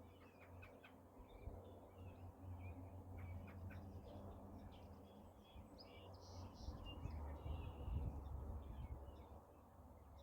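Songbirds chirping and calling, faint, in many short notes over a low steady rumble that swells for a few seconds past the middle.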